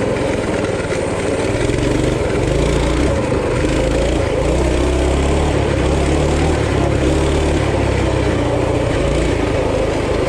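Coleman RT200 mini bike's small single-cylinder four-stroke engine running steadily under way, its pitch shifting up and down a little with the throttle.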